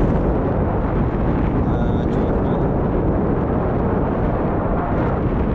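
Loud steady rumble of wind buffeting the microphone on a moving speedboat used for parasailing.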